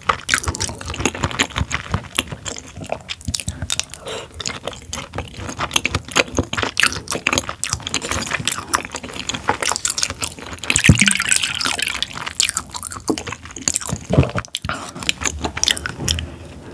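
Close-miked wet chewing of raw tuna sashimi: a dense run of small wet mouth clicks and smacks, with a louder slurping rush about eleven seconds in.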